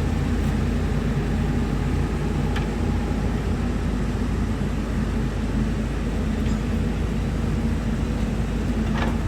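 Hyundai excavator's diesel engine running steadily, with a faint click about two and a half seconds in and another near the end.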